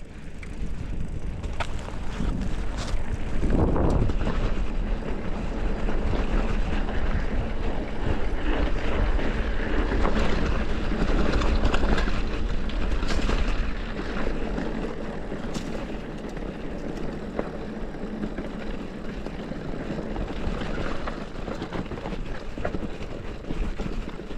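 Wind buffeting an action camera's microphone on a moving mountain bike, a steady heavy rumble, with scattered knocks and rattles from the bike on a dirt trail.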